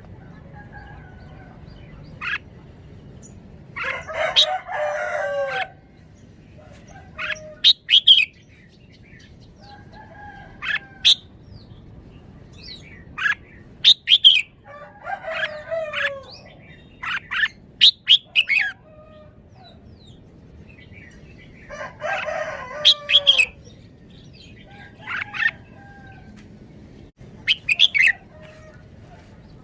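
Caged red-whiskered bulbul singing short, sharp whistled phrases in bursts throughout. A rooster crows three times in the background.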